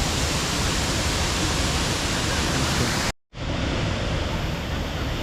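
Waterfall: a steady, loud rush of falling water. About three seconds in it drops out to silence for a moment, then comes back slightly duller.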